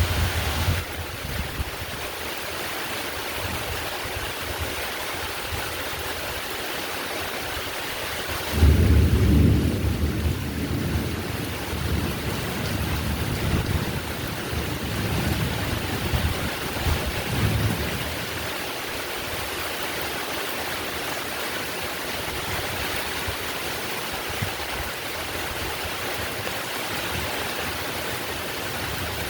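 Steady heavy rain falling, with a low rumble of thunder breaking in suddenly about a third of the way through and rolling on in swells for several seconds before fading back under the rain.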